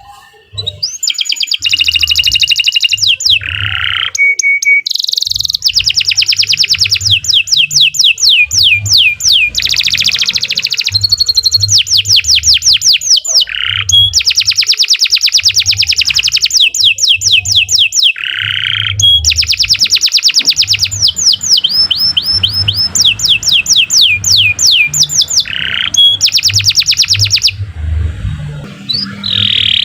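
Domestic canary singing a long, loud song of fast rolling trills and quick repeated whistled notes, with brief pauses between phrases, over a faint low thudding.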